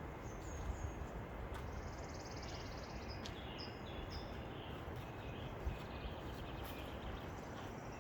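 Wind blowing as a steady rush, with small songbirds chirping and singing high overhead, including a rapid trill about two seconds in. A few low bumps of wind hit the microphone.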